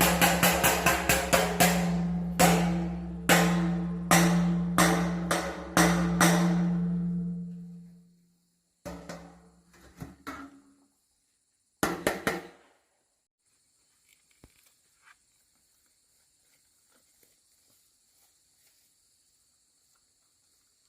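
Percussive knocking, a quick run of strikes and then slower evenly spaced beats over a steady low hum, fading out about eight seconds in. A few scattered knocks follow, then near quiet.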